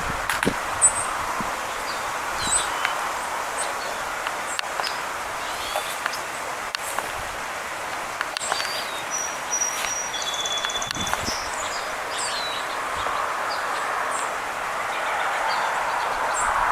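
Small songbirds chirping with many short high calls, with a couple of longer whistled notes about nine and eleven seconds in, over a steady rush of wind in the trees.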